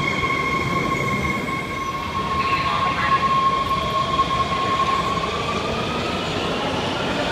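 Metro train running, with a steady rumble and a high whine over it whose pitch bends slightly upward past the middle.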